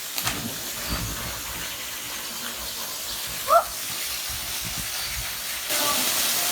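Steady rush of falling or flowing water at a waterfall, with a short rising chirp-like call about three and a half seconds in. The water noise gets louder near the end.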